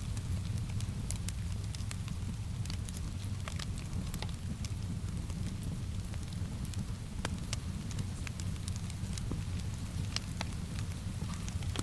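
Wood fire in a fireplace crackling, with frequent irregular sharp pops over a steady low rumble, mixed with steady rain.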